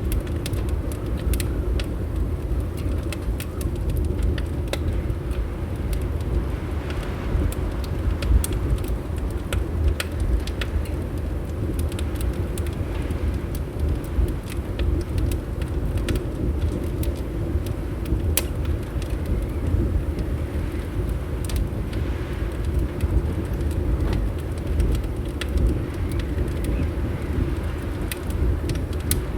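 Wood fire crackling in a fireplace, with irregular sharp pops and snaps scattered throughout, over a steady low rumble of wind against windows.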